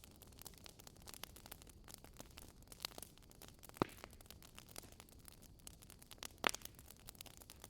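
Campfire wood crackling: a steady run of small snaps over a low hiss, with two louder pops, one about halfway through and one near the end.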